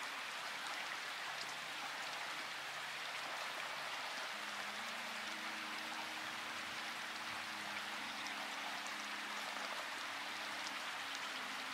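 Steady rain hiss with scattered drop ticks, over faint soft held low music notes that shift every second or two.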